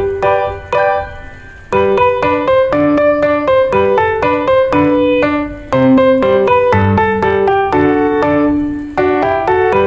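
Background music: piano playing a melody of quick, evenly struck notes, with a brief dip about a second and a half in.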